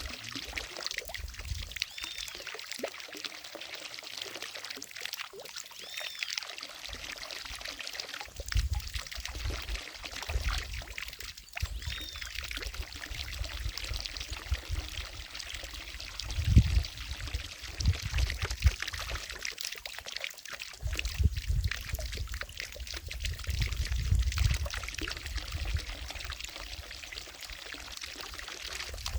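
Water falling from a fountain into a lake, a steady pouring and splashing, with irregular low rumbles and a short high chirp a few times.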